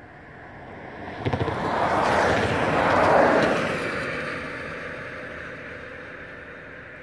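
A vehicle passing close by: its noise swells to a peak about three seconds in, then fades away, with a brief flurry of clicks as it approaches.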